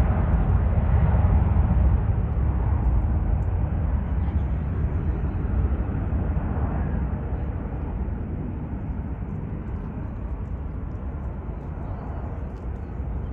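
Jet airliner's engines rumbling as it passes, a deep noisy roar that is loudest at first and slowly fades away.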